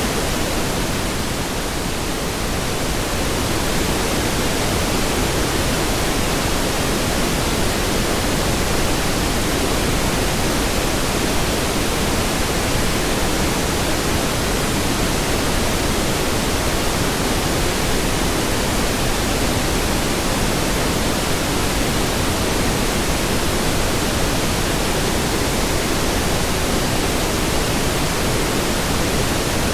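Steady pink noise: an even, full-range hiss weighted toward the low end, dipping slightly in level about two seconds in.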